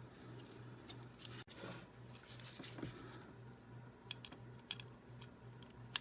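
Faint light clicks and scratching of small die-cast toy car parts being handled and fitted together, over a low hum that pulses about three times a second.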